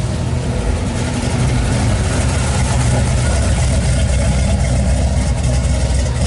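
A car engine idling: a steady, low-pitched running sound with no revving.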